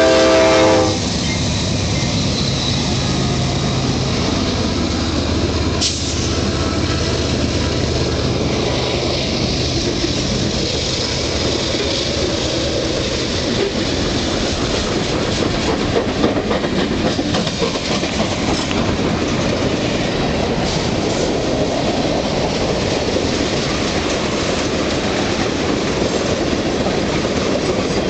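A CSX freight train led by five diesel locomotives passing close by. A horn chord cuts off about a second in. A low engine hum runs through the first half, then steady rolling wheel noise with rail-joint clicking continues as the freight cars go by.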